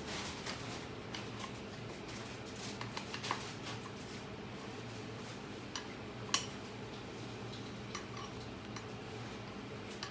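Scattered light clicks and clinks of hard objects being handled, the sharpest about three and six seconds in, over a steady low hum.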